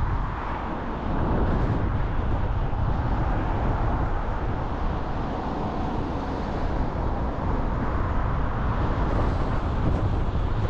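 Steady road noise of a car driving, a dense low rumble with a hiss above it and no let-up.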